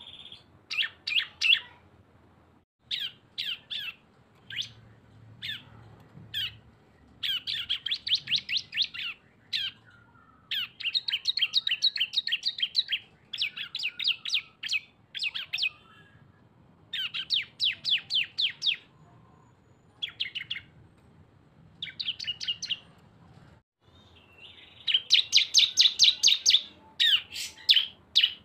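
Prinias (ciblek) singing in the rapid trilled 'ngebren' style. They deliver repeated bursts of fast, stuttering high notes separated by short pauses, with two birds' songs combined.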